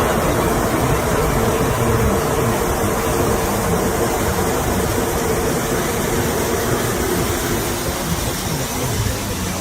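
Loud, steady rush of wind and water noise with a boat's engine running underneath; it cuts off suddenly near the end.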